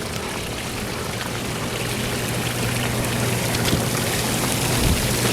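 Hot tub water churning and splashing from the jets, over a steady low hum.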